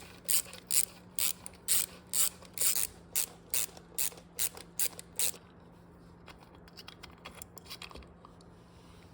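Ratchet wrench being worked in quick strokes, a rapid clicking about two and a half times a second, that stops a little after five seconds; faint small clicks of handling follow.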